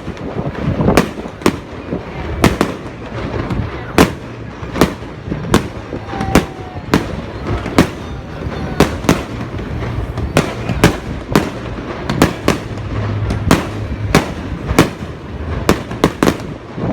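Fireworks display: a rapid, irregular run of sharp aerial shell bursts, two or three bangs a second, over a continuous low rumble.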